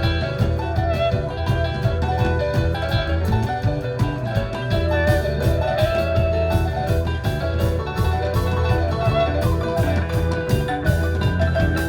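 Live rock band playing: guitar over a steady bass line and a drum kit keeping time on the cymbals.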